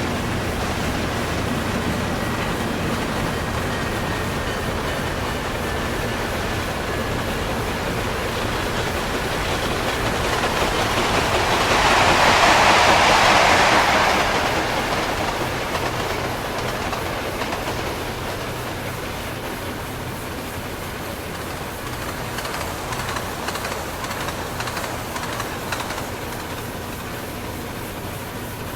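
Steam train running along the track, with a louder hiss that swells and fades in the middle.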